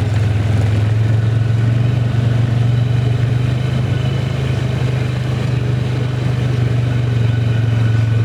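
A vehicle engine running steadily, with a strong low drone and no change in speed.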